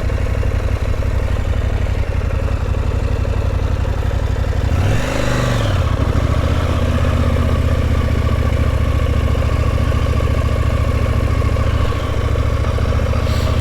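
Motorcycle engine running steadily, with a brief rise and fall in pitch about five seconds in.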